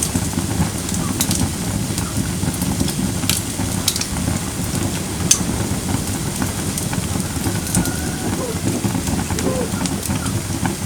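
Firewood burning in a fire pit: a steady low rush of the fire with scattered sharp pops and crackles from the logs, a few seconds apart.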